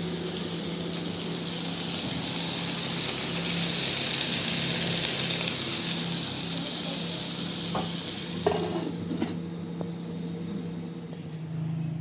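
Food sizzling as it fries, the hiss swelling to its loudest about halfway, then fading, with a few sharp clicks near the end. A steady low hum runs underneath.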